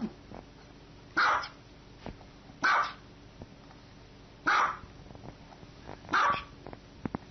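A small dog barking four times, single barks spaced about a second and a half apart.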